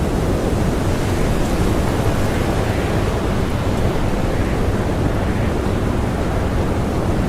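Strong blizzard wind blowing steadily, a dense even rush heaviest in the low end.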